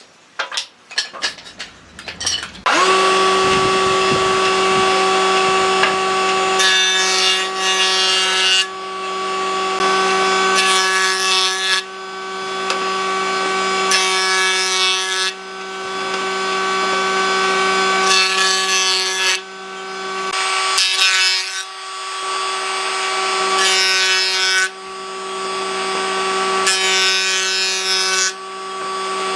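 An electric power tool cutting into hardwood. A few knocks come first, then about three seconds in the motor starts and runs at a steady hum, with a rougher cutting noise that builds and drops in repeated passes every few seconds.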